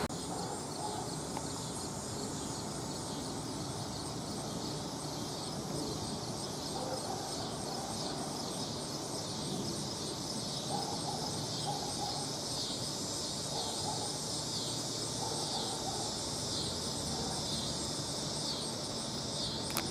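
A steady outdoor chorus of insects, a high, pulsing trill that keeps going without a break.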